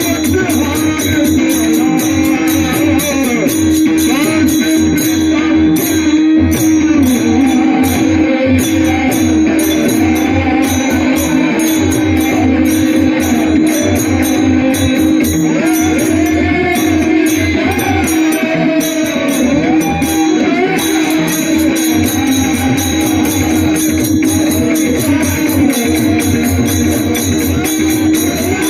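Marathi Varkari kirtan singing: a male voice holds long, ornamented notes over a steady drone, with small hand cymbals jingling in a steady rhythm and a pakhawaj drum beneath. The cymbals break off twice for a moment, about a third of the way in and again past the middle.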